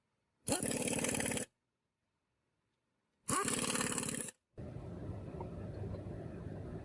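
A motor-driven machine spinning up briefly twice, each time with a quick rising pitch, then running steadily from about halfway through.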